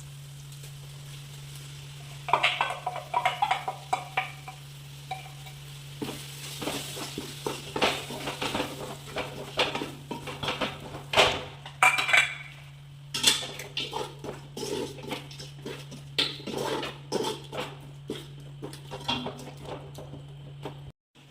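Metal spoon stirring in a cooking pot, with repeated clinks and scrapes against its sides over a light sizzle, starting about two seconds in. A steady low hum runs underneath.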